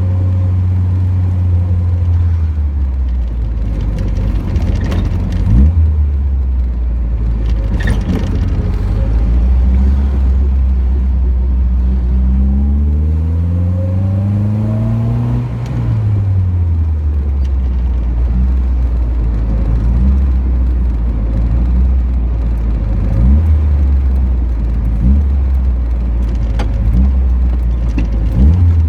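Triumph Spitfire's four-cylinder engine running as the car drives, with a low, steady exhaust note. About twelve seconds in the revs climb for three or four seconds, then fall back. A few short, louder blips come near the end.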